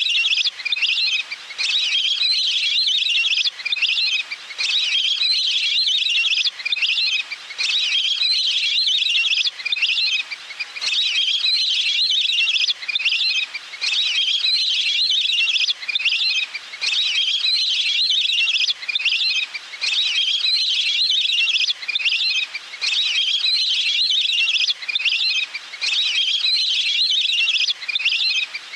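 Recorded waterfowl calls played as a lure to draw birds in. A high, chirping phrase repeats over and over, with brief gaps every one to two seconds.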